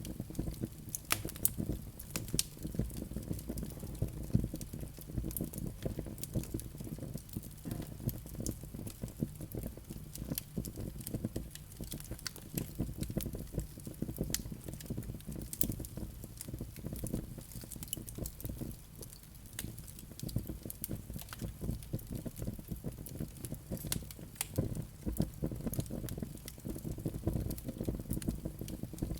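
Wood fire burning in a fireplace, crackling steadily with many small irregular pops and snaps over a low rumble of the flames.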